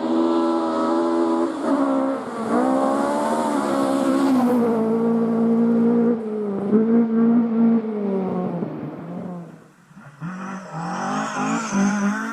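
Rally car engine driven hard through the gears, its pitch climbing and dropping back at each shift. Near the end the engine fades, gives a brief burst of revs, then fades again.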